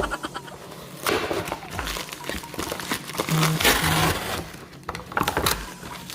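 Plastic packaging and bags rustling and crinkling as they are handled, in a couple of bursts with a few light knocks.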